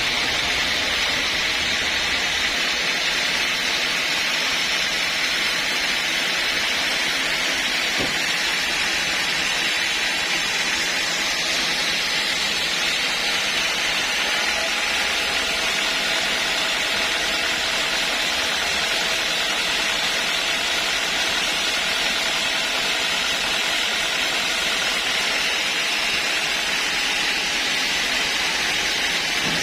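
Sawmill machinery running with a steady, unbroken noise that does not change for the whole stretch.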